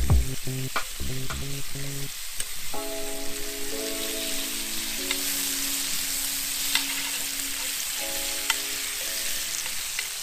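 Meat frying and sizzling in cast iron skillets over a campfire, with a few light clicks of metal tongs against the pans. Soft background music plays held notes in places.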